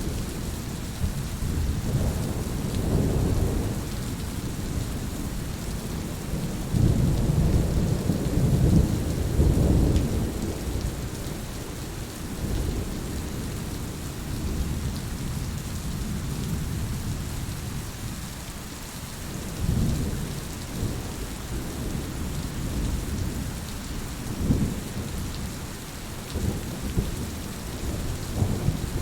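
Heavy rain falling steadily, under low rolling rumbles of thunder that swell and fade, loudest about a third of the way in.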